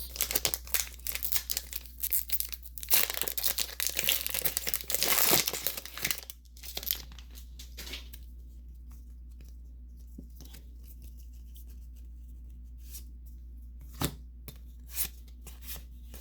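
Foil Pokémon booster pack wrapper torn open and crinkled by hand for about six seconds, then scattered light clicks as the cards are handled.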